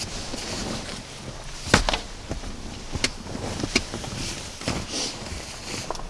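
Knocks, clicks and rustling as the bed is set up inside the minivan camper. Several sharp knocks, the loudest about two seconds in.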